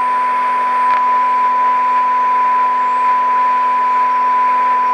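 Marconi 2004 seven-transistor radio's speaker sounding a steady, loud test tone over a hiss of static. The radio is receiving a signal generator's modulated test signal while its antenna trimmer is being aligned.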